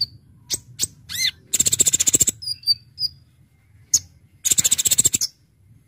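Purple-throated sunbird (kolibri ninja) singing: sharp chips and short high whistles, a quick falling note about a second in, and two rapid rattling trills, one about a second and a half in and one near the end.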